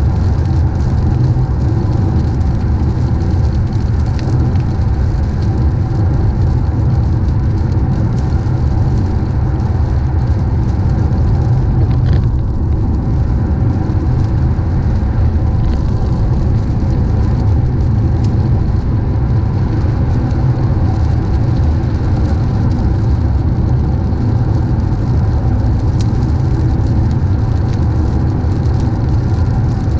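A car driving along steadily: a constant low rumble of road and engine noise that holds even throughout.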